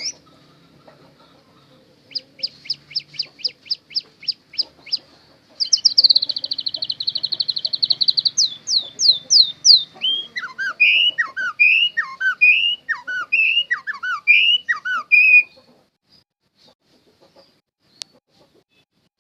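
A songbird singing a long, varied song: a run of quick, evenly spaced chirps, then a fast trill, then repeated two-part whistled phrases, stopping about three-quarters of the way through. A single sharp click near the end.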